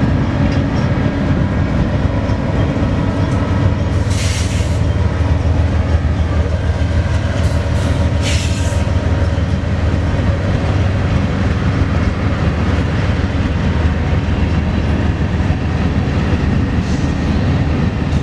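BNSF freight train passing close by: a loud, steady, low rumble of wheels rolling on rail. Two brief high hissing bursts come about 4 and 8 seconds in.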